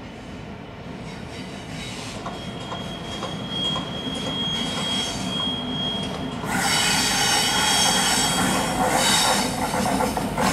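Class 66 diesel locomotive hauling a long freight train of wagons round a curve towards the listener, its rumble growing steadily louder. A thin, steady high wheel squeal sets in about two seconds in, and about six and a half seconds in the sound turns much louder, with several shrill squeals of wheel flanges against the rails on the curve.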